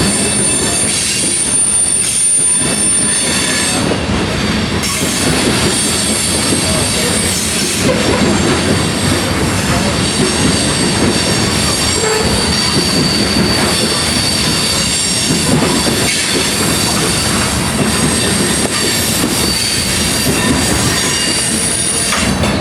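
Freight cars of a grain train rolling past, steel wheels on rail clattering steadily, with high-pitched wheel squeal that comes and goes.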